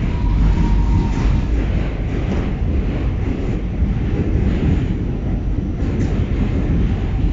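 New York City subway D train running at speed, a steady loud rumble of wheels and motors heard from inside the car.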